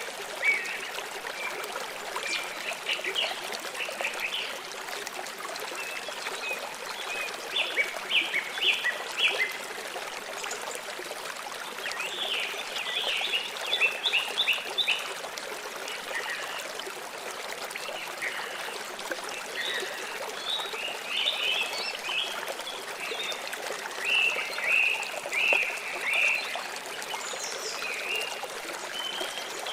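Water flowing steadily in a stream, with a bird chirping in quick runs of short, high notes every few seconds.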